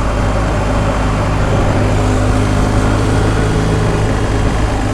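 BMW R1250 GS Adventure's boxer-twin engine running steadily while the motorcycle rides along, with a steady rush of wind and road noise over it.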